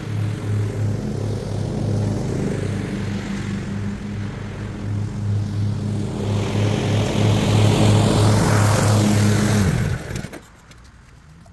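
Husqvarna lawnmower engine running steadily with a newly fitted fuel filter, which the owner says makes it run better. It grows louder and brighter for a few seconds, then stops abruptly near the end.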